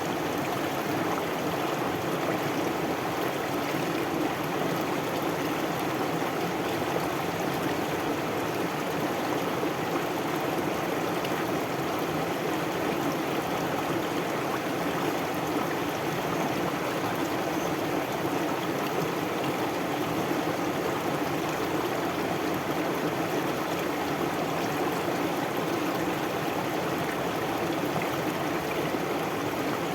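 Stream water flowing, a steady unbroken rush with no change in level.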